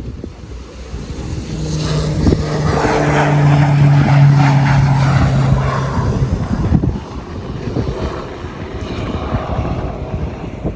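Low-flying propeller aircraft passing overhead. Its engine drone swells to a peak about four seconds in, drops slightly in pitch and fades away.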